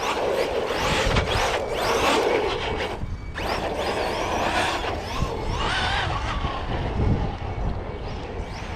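Electric RC cars' motors whining, the pitch rising and falling several times as the cars speed up and slow down.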